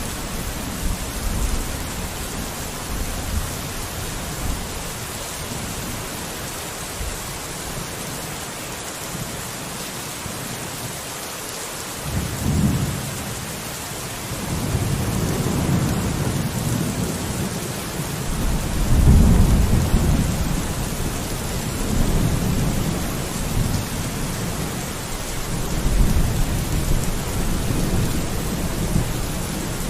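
Steady rain falling on a window, with low rumbles of thunder rolling in about halfway through and swelling several times.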